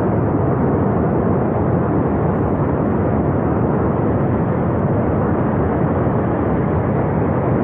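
Steady, loud rushing of a glacier-burst flash flood: a torrent of water, mud and debris pouring down a Himalayan river valley, with no break or change.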